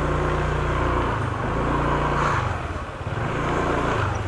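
Motorcycle engine given three short bursts of throttle, each rising and then easing back toward idle.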